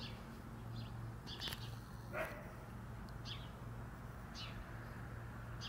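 Small birds chirping in short, high, separate notes about once a second, with one louder falling call about two seconds in, over a steady low hum.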